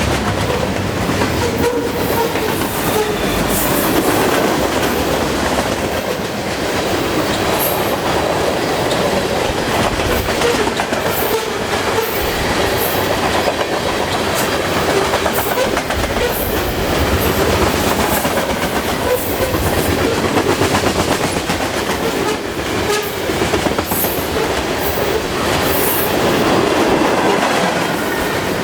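Freight cars of a long train rolling past: a steady rumble with the wheels clacking over the rail joints and short sharp clicks throughout.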